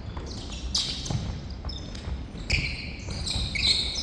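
Indoor court game: several quick squeaks of sports shoes on a hall floor, with a few dull thuds of a ball bouncing and of footsteps, in a reverberant hall.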